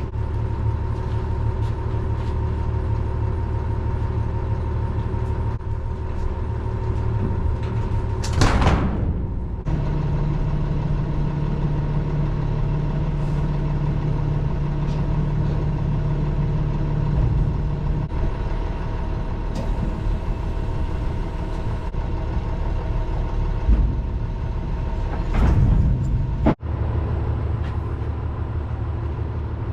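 Box truck engine running steadily, a constant low hum, with two short loud hisses: one about a third of the way in and one near the end.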